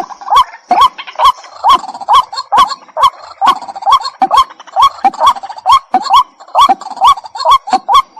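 White-breasted waterhen calling from a decoy recording: a fast, monotonous string of short, hooked notes, about two and a half a second, each with a sharp click at its start.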